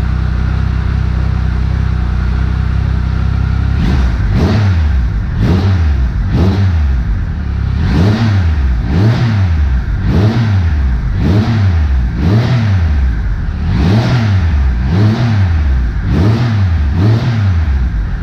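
Triumph Trophy SE's 1215 cc three-cylinder engine through a Remus titanium slip-on exhaust with its baffle core fitted, idling for about four seconds and then blipped about a dozen times, roughly once a second. It has a deeper growl to it.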